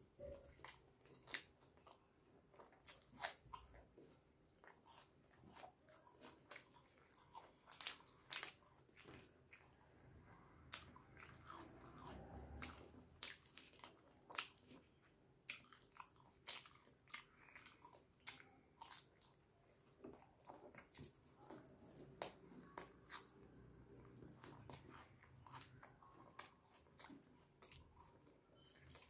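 Close-up eating sounds: wet chewing and lip smacking on naan and butter chicken, made of quiet, irregular sharp clicks several times a second. Fingers squish and tear the naan in the curry plate between mouthfuls.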